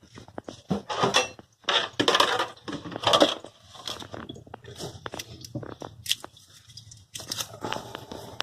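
Irregular handling noises: crinkling, crunching and scattered clicks of hands working on toilet fill valve parts, louder bursts in the first few seconds.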